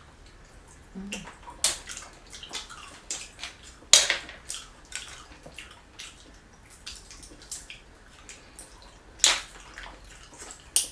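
Wet, close-up eating sounds of seafood: chewing, smacking and slurping, with sharp clicks about four seconds and nine seconds in and again near the end.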